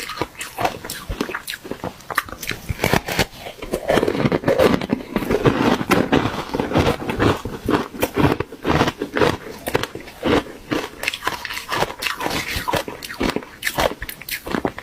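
Close-up biting and chewing of refrozen ice, with dense, irregular crunches throughout.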